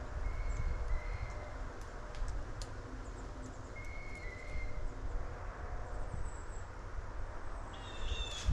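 Unidentified bird calls: two pairs of short whistled notes, then a higher call near the end, over a low wind rumble. The birder cannot place them and wonders whether they are blue jays making an odd noise.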